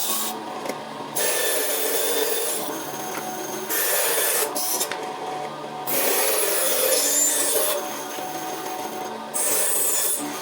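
Woodworking machinery working wood: a steady motor hum under a rasping, scraping noise of wood being cut or shaped. The sound changes abruptly every second or two, as short clips cut from one to the next.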